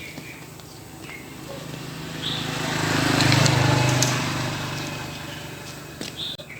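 A steady motor hum that grows louder toward the middle and then fades away.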